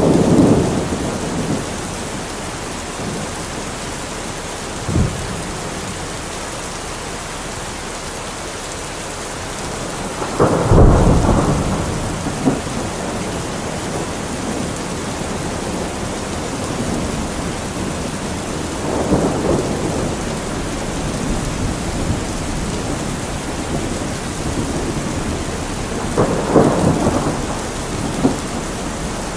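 Steady heavy rain falling on a metal roof, with several rolls of thunder; the loudest rumble comes about ten seconds in and lasts a couple of seconds, with smaller ones near the start, about five seconds in, and in the second half.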